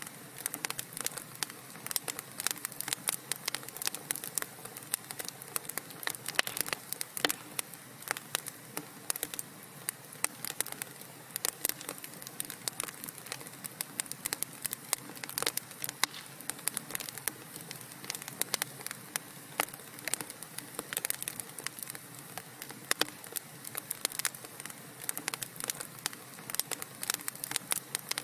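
Wood fire burning in a fireplace: dense, irregular crackles and pops over a steady hiss.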